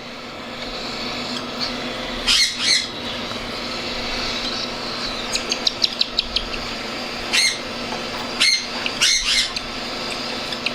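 Baby cockatiel giving short, sharp squawking food-begging calls, several times, while being syringe-fed, over a steady hum. A quick run of about eight clicks comes in about five seconds in.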